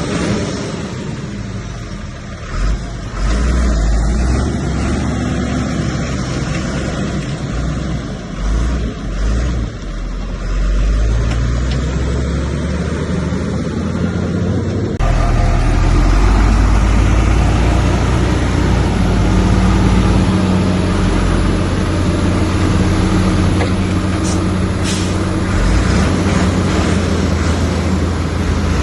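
Heavy diesel earthmoving machinery running with a steady low rumble, with a sudden change in the sound about halfway through.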